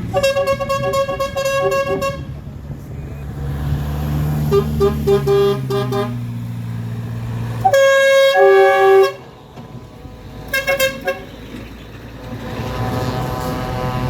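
Vehicle horns tooting as tractors and lorries pass: quick runs of short toots and, about eight seconds in, one loud, longer two-tone blast. The engines of the passing vehicles run underneath.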